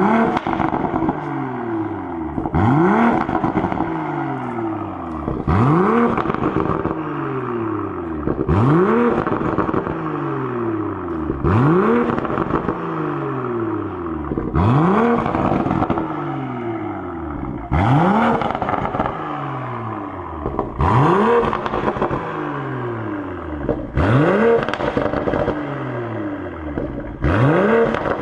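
BMW Z4 M40i's turbocharged straight-six revved repeatedly through a valved Brillante performance exhaust: about ten quick blips, roughly every three seconds, each rising sharply and then falling back. Each comes with pops and crackles from the exhaust as the revs drop.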